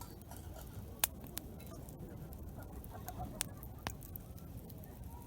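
Campfire wood burning with a few sharp crackling pops, the loudest about a second in, over a steady low murmur.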